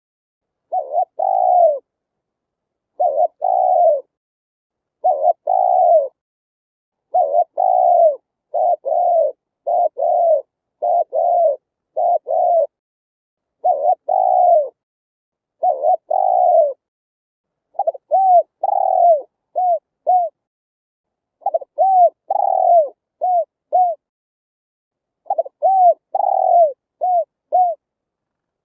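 Spotted dove cooing its song over and over: phrases of two to four coos, each note falling in pitch, with gaps of about a second between phrases and nothing else audible.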